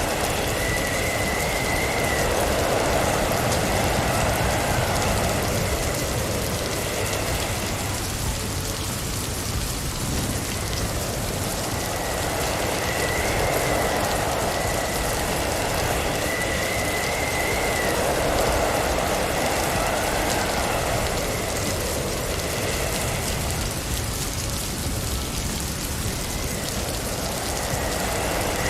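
Blizzard wind and driving snow against a moving car: a steady hiss that swells and eases every several seconds, with a faint high whistle that comes and goes.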